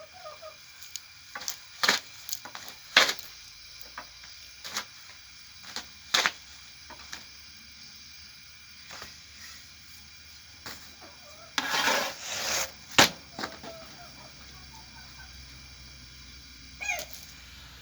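Chickens clucking, with scattered sharp knocks and clicks throughout and a short rustling noise about twelve seconds in.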